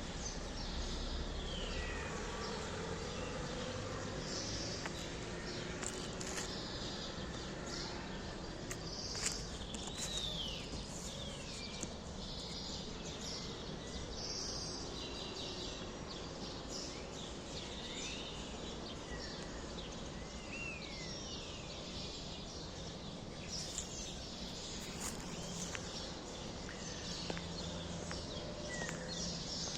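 Small songbirds chirping, with scattered short calls and quick pitch sweeps, over a steady low background rumble.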